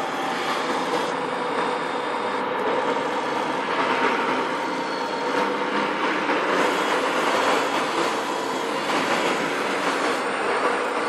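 1:14 scale radio-controlled model trucks running: a steady mechanical drone with faint held tones and no clear breaks.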